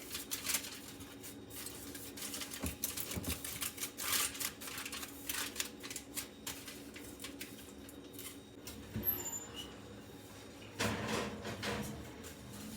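Aluminium foil crinkling and crackling in irregular short bursts as it is pressed and crimped closed around a brisket pan, with a louder spell of rustling near the end. A faint steady hum runs underneath.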